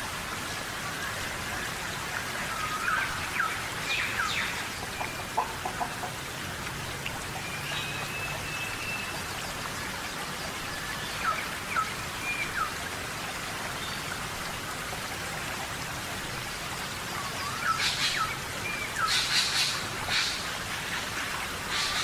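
Steady jungle rain, with short chirping bird calls in several spells, busiest near the end.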